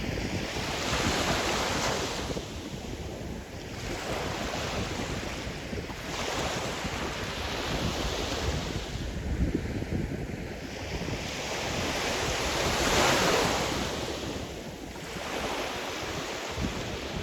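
Sea surf: waves breaking and washing in slow surges, one about every five or six seconds, the biggest about thirteen seconds in. Wind buffets the microphone with a low rumble underneath.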